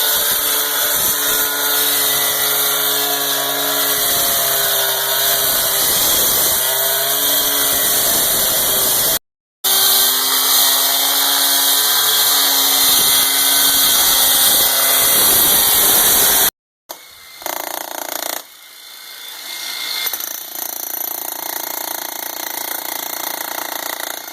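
A power tool running hard, cutting out part of a pond wall, heard in two clips split by a brief break. After a cut it gives way to a quieter, steady rushing noise.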